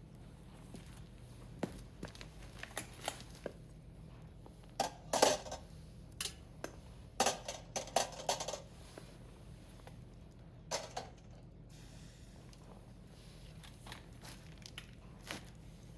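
Firewood burning in a Picogrill fire pit, crackling and popping in scattered sharp clicks. Louder clusters of crackles come about five seconds in, again from seven to eight seconds, and once more near eleven seconds.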